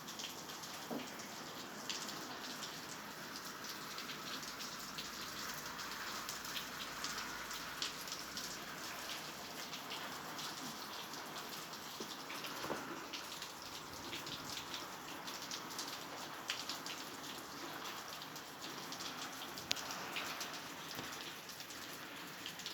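Steady rain falling, with many individual drops ticking sharply against nearby surfaces.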